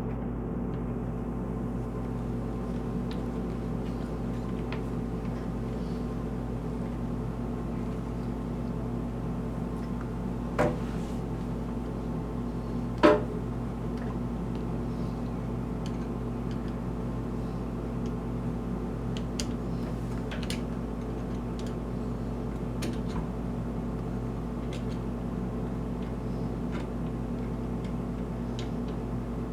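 A steady machine hum runs throughout, with two sharp clicks about ten and a half and thirteen seconds in, the second louder.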